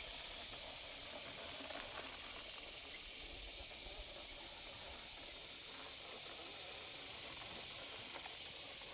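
Steady hiss with a few faint light ticks.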